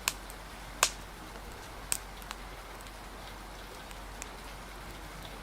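Steady rain hiss with a handful of sharp, irregular pops and snaps from a crackling wood fire, the loudest about a second in.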